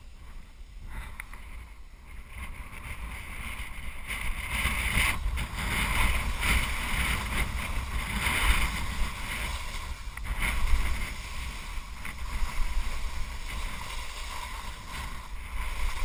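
Skis scraping and hissing over snow on a steep descent, in uneven surges that grow louder a few seconds in, with wind rumbling on the microphone.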